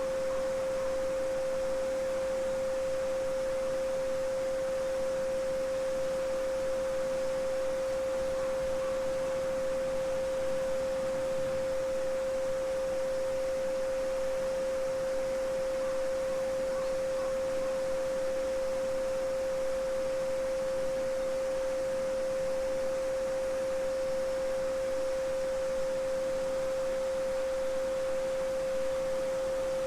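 A steady, unbroken 528 Hz sine tone (solfeggio frequency), held at one pitch, over the even rushing of a small babbling brook.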